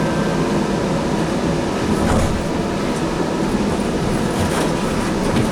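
Sound Transit Link light rail car running between stations, heard from inside the car: a steady rail rumble with a few faint clicks from the wheels and track.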